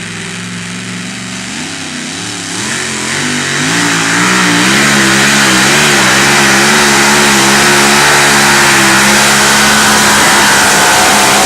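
Two-wheel-drive pulling truck's engine, revving unevenly at first, then running loud at high, steady revs from about four seconds in, the sound of a truck under full throttle on a pull.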